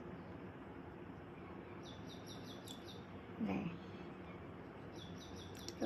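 Small birds chirping in quick runs of five or six short high notes, twice. A louder, lower call with a brief slide in pitch sounds about three and a half seconds in and again at the end.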